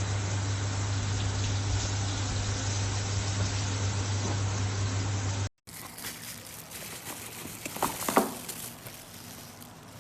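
Foldable silicone electric kettle heating water towards the boil: a steady rushing noise with a low electrical hum, cut off suddenly about five and a half seconds in. A quieter hiss follows, with a few clicks near the end.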